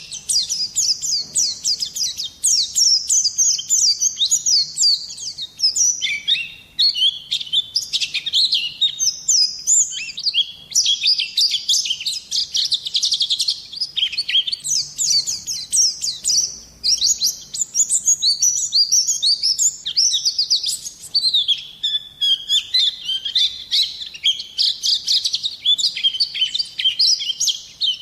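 White-eye (pleci) singing a long, rapid, twittering song of high chirping notes, almost without a break.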